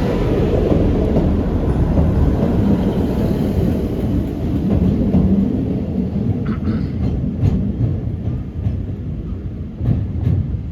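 Two-car Class 158 diesel multiple unit pulling out and moving away, its engine and wheel noise fading gradually. In the second half there are a few sharp clicks of wheels passing over rail joints.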